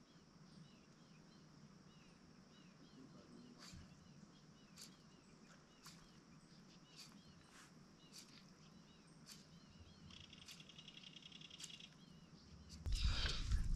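Quiet lakeside evening ambience: small birds chirping over and over, with a buzzy trill about ten seconds in and faint scattered clicks. Near the end a loud rustling close to the microphone.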